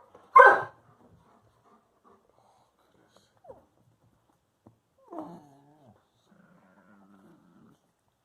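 A pet dog barks once at the start, then after a pause gives a short falling whine and a low, drawn-out grumble, vocalising for attention.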